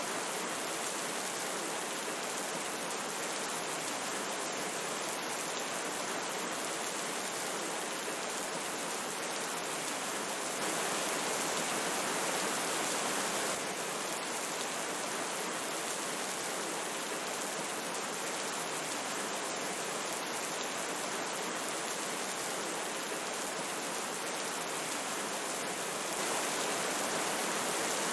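Steady rushing of a stream with rain falling, an even hiss with a fine patter of drops. It swells slightly for a few seconds about ten seconds in and again near the end.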